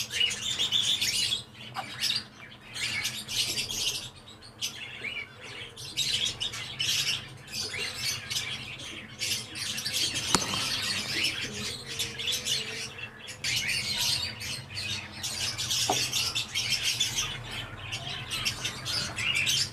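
Aviary birds chirping and calling continually, many overlapping high chirps. Two light knocks come in the middle and later on, as wooden hive frames are handled in the bee box.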